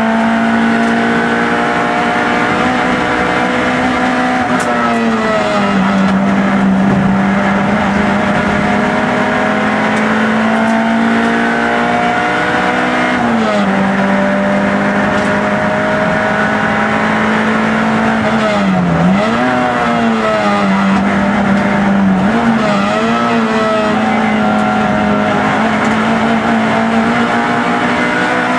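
Peugeot 106 rally car's four-cylinder engine heard from inside the cabin, held at high revs at a steady pitch under hard driving. The pitch dips briefly about five times as the driver lifts off or changes gear, then climbs straight back.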